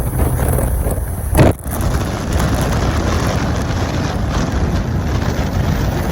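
A car on the move: steady, loud road and wind noise, with one short loud burst about a second and a half in.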